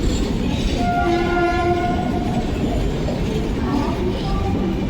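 Passenger train running past on departure, with a steady rumble of wheels on the track. About a second in, a single horn blast sounds and lasts about a second and a half.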